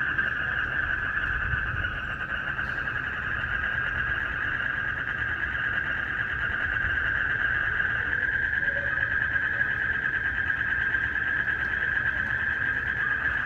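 Dense night chorus of frogs and crickets: a steady, finely pulsing trill with a low rumble underneath.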